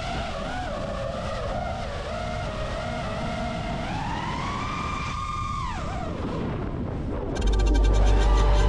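FPV quadcopter's brushless motors whining, the pitch shifting with the throttle: it climbs about four seconds in, holds, then glides down and fades near six seconds. Music with a deep bass and a ticking beat starts about a second before the end.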